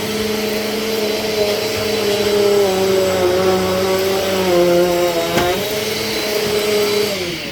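Vacuum cleaner motor running with a steady whine, its pitch dipping briefly about five seconds in. Near the end the motor's pitch and loudness begin to fall as it winds down.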